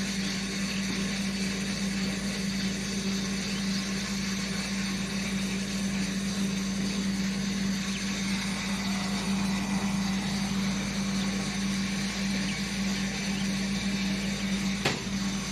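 An engine running steadily with an unchanging hum, and one sharp click near the end.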